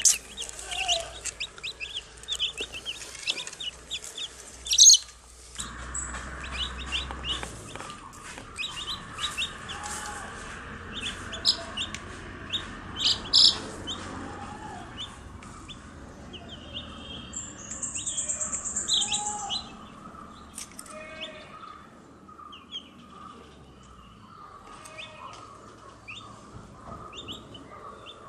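Baby chicks peeping: many short, high chirps coming thick and fast, with a few low clucks now and then.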